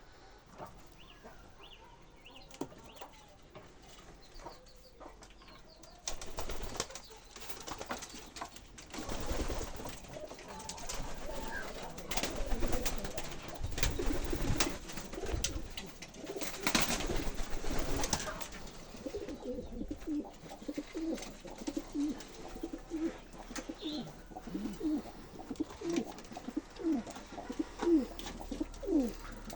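Domestic pigeons cooing, a run of short low notes repeating through the last ten seconds or so. Before that comes a long stretch of loud rustling noise.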